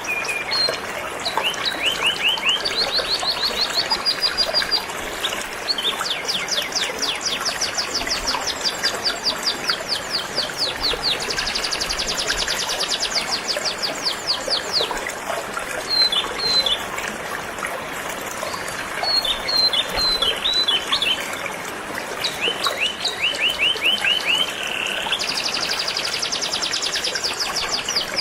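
Canary singing in quick trilled phrases, each a fast run of the same repeated note, one phrase after another with short gaps, over the steady rush of flowing river water.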